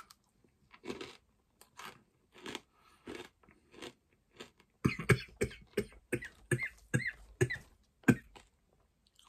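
Hard, crunchy pork scratchings being chewed close to the microphone: a string of short crunches, spaced out at first, then quicker and louder from about five seconds in.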